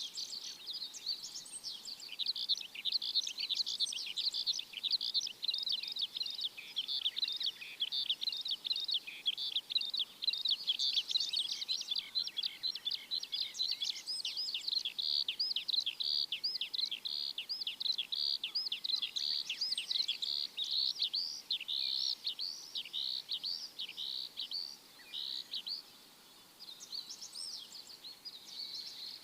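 Birds chirping: a dense, unbroken stream of quick, high chirps that thins out near the end.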